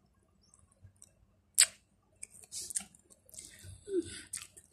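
A person chewing chicken nuggets with crackly mouth sounds and short smacks. There is one sharp click about one and a half seconds in, the loudest sound.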